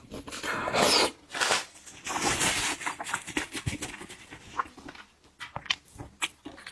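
Close-miked mouth sounds of eating seafood: wet chewing and smacking in the first half, then a run of sharp clicks and crackles.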